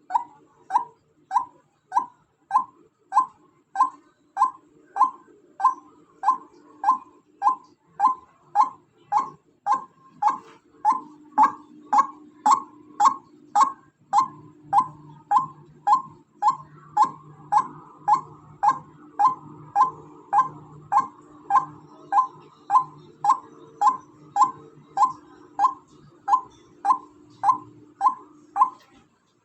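White-breasted waterhen (ruak-ruak), female, calling: a short note repeated evenly about one and a half to two times a second in a long unbroken series, stopping near the end.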